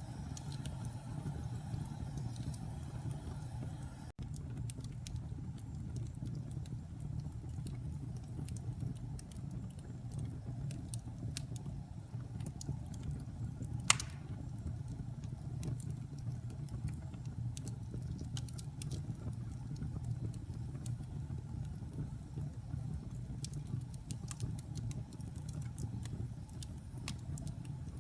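Wood fire burning in a fireplace: a steady low roar with scattered crackles, and one loud pop about halfway through.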